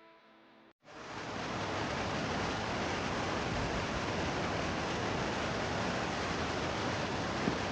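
Rushing river water, a steady even rush of whitewater rapids, the Cheakamus River below the bridge. It cuts in sharply just under a second in, after a moment of quiet, and holds steady.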